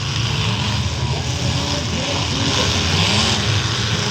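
Several demolition-derby truck engines running and revving together, their pitches rising and falling, over a steady din.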